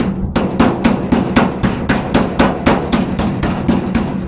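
Autobody pick hammer striking rusted sheet metal and body filler along a pickup truck's wheel arch in quick, even blows, about five a second, knocking out bondo and rust to find the weak metal.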